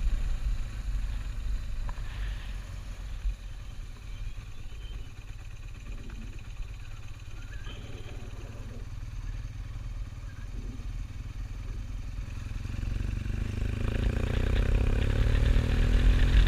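Motorcycle engine running under a steady low rumble of riding noise, rising in pitch and getting louder over the last few seconds as the bike speeds up.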